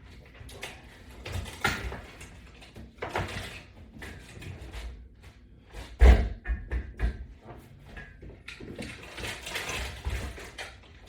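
Knocks, clunks and shuffling of workout gear being handled and moved between exercises, with a heavy thump about six seconds in.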